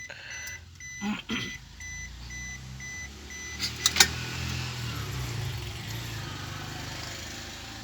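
Suzuki DA64W's K6A three-cylinder engine turning over on its starter for several seconds without catching: the crank-no-start fault being chased. A couple of sharp clicks come about four seconds in, and an electronic chime beeps evenly at first.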